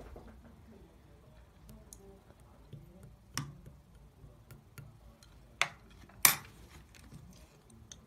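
Scattered light clicks and knocks, with three louder sharp clicks about three and a half, five and a half and six and a quarter seconds in.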